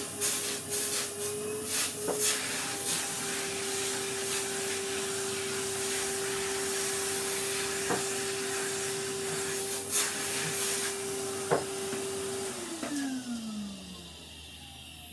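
Vacuum cleaner running with a steady whine and hiss, with scattered knocks as it works over the wooden table, then switched off about 13 seconds in, its motor whine falling as it winds down.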